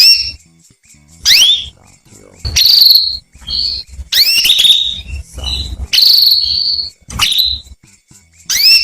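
Female canary calling: a string of short, rising chirps about once a second, some ending in a briefly held note. These are the calls played as a lure to get male canaries singing.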